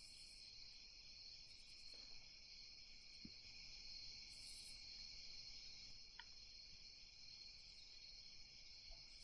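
Faint night chorus of crickets: a steady high trill, with short, higher chirps coming in every few seconds.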